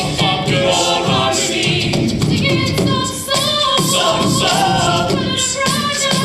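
Choir singing a cappella: mixed voices holding and moving between chords, with no instruments.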